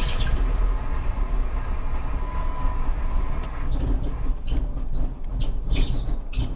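Chrysler PT Cruiser engine idling just after a cold start, a steady low rumble. From about four seconds in, a quick run of short high chirps joins it: a slightly squeaky drive belt.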